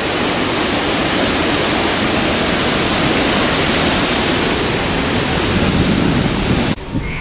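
Steady loud rushing noise of air and road noise on the microphone of a moving car, cutting off suddenly near the end.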